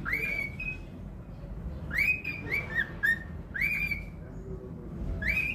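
Cockatiel whistling a tune: short whistled notes that slide up and then hold, sung in quick runs with a pause of about a second after the first note.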